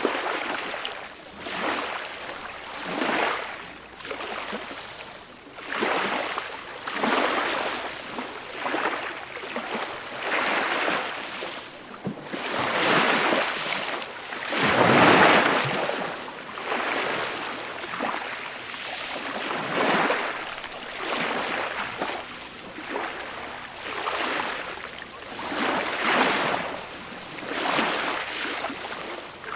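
Small, gentle waves breaking and washing up the shore, a new soft swell of surf every second or two, the largest about halfway through.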